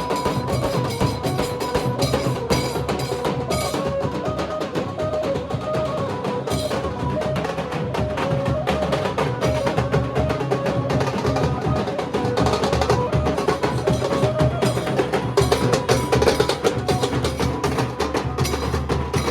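Nasik dhol drumming in a dense, fast, steady rhythm of sharp strokes, with a melody of stepped notes played over it.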